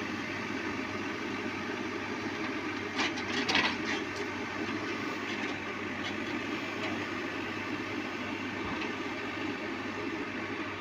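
ACE PhanTom 4x4 backhoe loader's diesel engine running steadily, with a few short metallic clanks about three seconds in.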